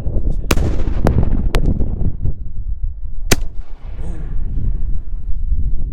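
Aerial firework shells bursting: about four sharp bangs within the first three and a half seconds, over a continuous low rumbling of booms and echoes.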